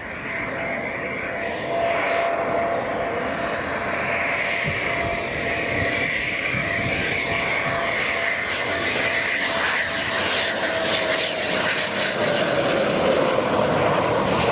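Fixed-wing aircraft engines flying past, growing louder, with a steady whine that drops in pitch near the end as the aircraft goes by.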